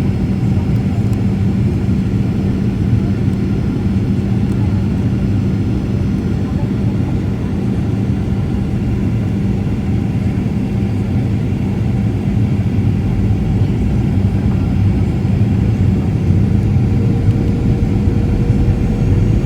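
Steady cabin noise of a Boeing 737 airliner in flight on approach: a loud, even rumble of engines and rushing air with a steady low hum. A thin higher engine tone grows stronger near the end.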